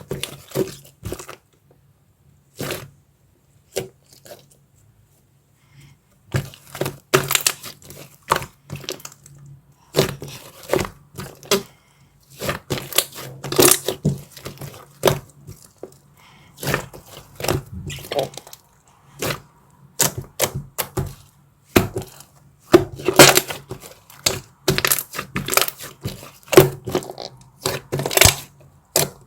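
Dark chocolate and its wrapper being handled close to the microphone: irregular sharp cracks, snaps and crinkles in clusters with short pauses. A faint low steady hum runs underneath.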